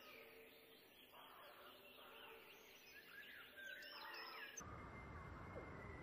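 Faint songbird chirps and calls, many short notes gliding up and down, until a little past four and a half seconds in, when they cut off abruptly and give way to a louder, steady outdoor hiss.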